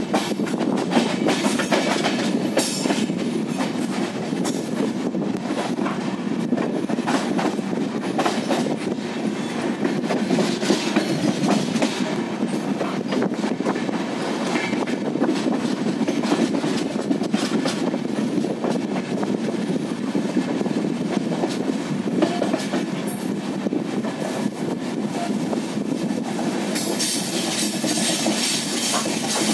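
Passenger train running on the rails, heard from an open coach doorway: a steady rumble with repeated clicks as the wheels cross rail joints, and more hiss near the end.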